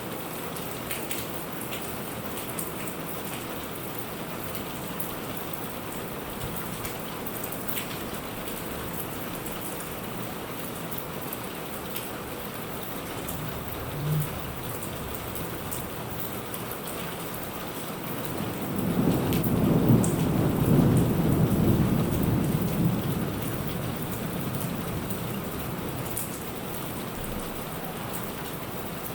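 Steady rain falling, with scattered raindrops ticking close by. About halfway there is a short low thump, and about two-thirds of the way through a roll of thunder builds, rumbles for several seconds and dies away under the rain.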